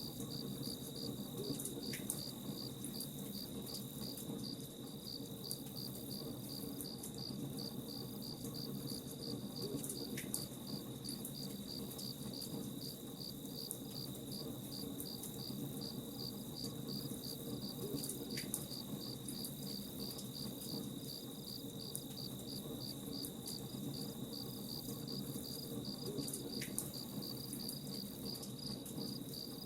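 Crickets chirping in a steady, even pulse, over the low rush and faint scattered crackles of a campfire.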